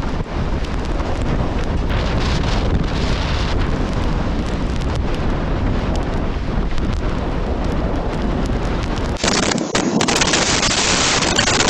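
Storm-force wind buffeting the microphone: a loud, rumbling rush with crackling gusts. About nine seconds in it turns abruptly to a brighter, harsher hiss.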